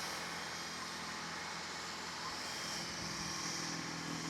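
Vehicle engine running steadily at a constant speed, a low even hum with a broad noisy wash over it.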